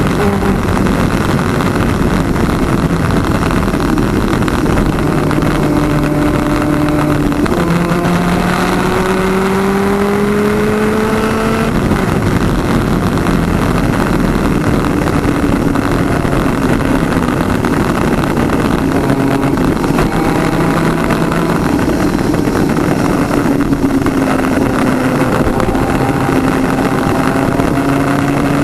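Twin-cylinder 250cc two-stroke superkart engine at racing speed, heard onboard: the pitch climbs and drops back with gear changes several times in the first twelve seconds, then holds at high revs with slow rises and falls. A dense rush of noise runs under it throughout.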